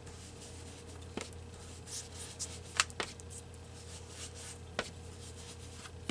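Faint handwork on a craft desk: soft rubbing on paper and a few sharp light taps of tools, over a steady low hum.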